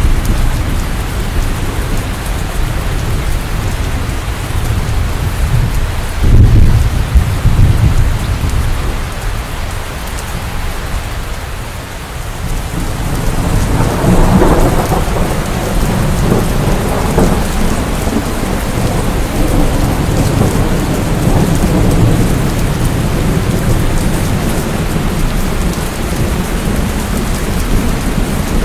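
Steady heavy rain with thunder: a short low rumble about six seconds in, then a longer rolling rumble that builds about halfway through and carries on under the rain.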